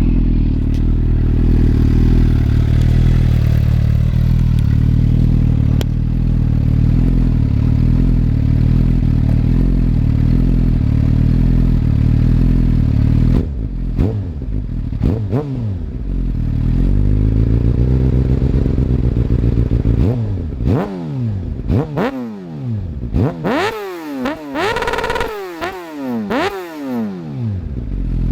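2011 Suzuki GSX-R 750's inline-four running through a full carbon-titanium aftermarket exhaust with race header: it idles steadily for about thirteen seconds, then is revved in sharp throttle blips, a few at first and then a quick run of them over the last eight seconds, dropping back to idle between.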